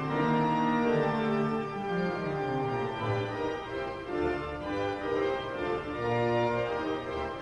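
Organ playing slow sustained chords that change every second or so, with a moving bass line, as a church service prelude.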